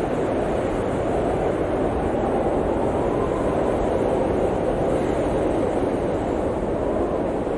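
Blizzard wind blowing steadily: an even, dense rushing noise with no gusts or breaks.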